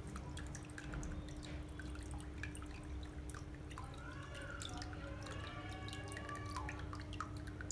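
Water trickling and dripping down a homemade tiered waterfall, with many small irregular drips, fed by a small submersible aquarium pump. A steady low hum runs underneath.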